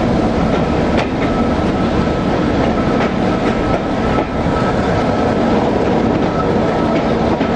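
Railway carriage running along the track, heard from an open window: a loud steady rumble of wheels on rail with a faint steady whine and a few sharp knocks from the wheels on the rails. The train runs into a tunnel partway through.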